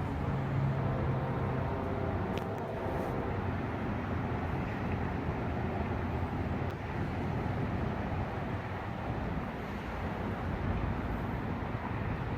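Steady low rumble of an Amtrak passenger train's diesel locomotive, with faint steady tones over the first three seconds.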